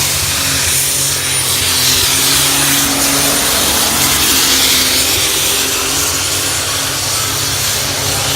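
John Deere pulling tractor's engine running loud and hard under load during a pull, its pitch shifting a little as it goes.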